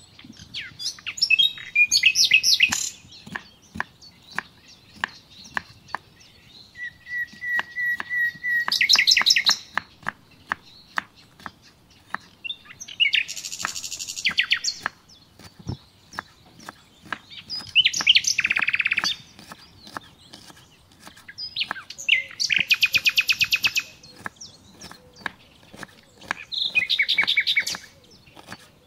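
A songbird sings six loud, trilling phrases, one every four to five seconds. Between them come the short, sharp taps of a knife slicing an onion on a wooden cutting board.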